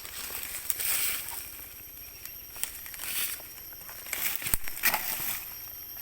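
Rustling and crunching of footsteps through dry leaf litter and undergrowth, with a sharp snap about four and a half seconds in, over a steady high-pitched drone of forest insects.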